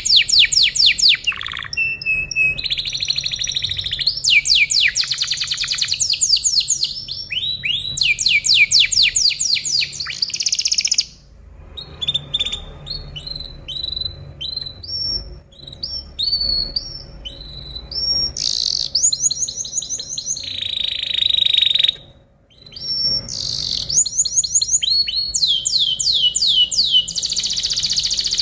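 Canary singing a long, varied song of fast trills and rapid repeated notes, switching to a new phrase every second or two, with two short lulls: one a little before the middle and one about three-quarters of the way in.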